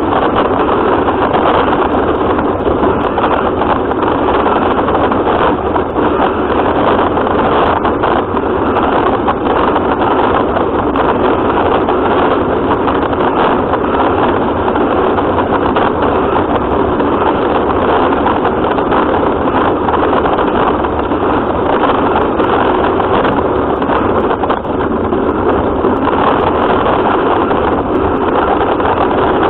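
Radio-controlled car running, heard through its onboard camera's microphone: a loud, steady mechanical running noise that does not let up.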